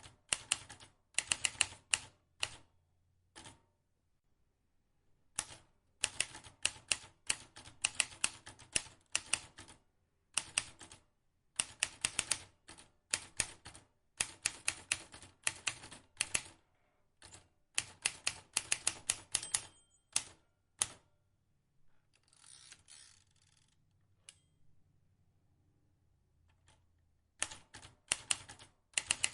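Vintage manual typewriter being typed on: its keys strike in quick runs of clicks, broken by short pauses. About two-thirds of the way through there is a softer, noisier stretch with no sharp clicks.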